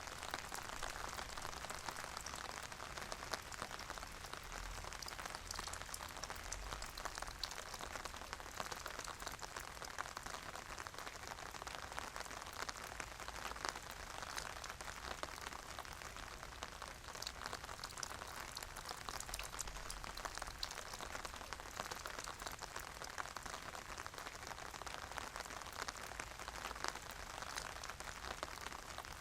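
Steady rain falling, with a dense patter of fine drop ticks over a soft even hiss.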